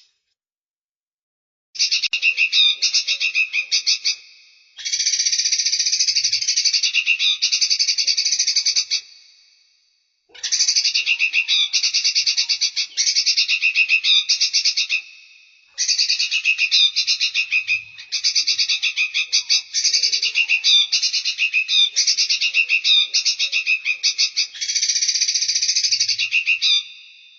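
Recorded songbird song played for bird training: rapid, high-pitched trilled phrases in bouts of several seconds, broken by short gaps, each bout starting abruptly as the recording loops.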